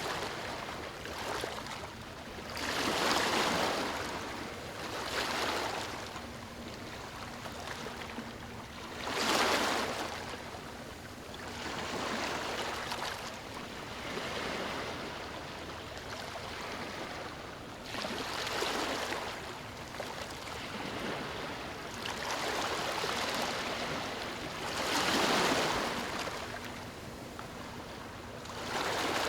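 Ocean surf breaking and washing up a beach, a hiss of water that swells and falls every few seconds.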